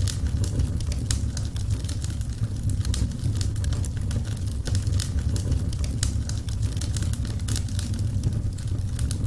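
Wood fire crackling: many quick sharp pops and snaps over a steady low roar of burning.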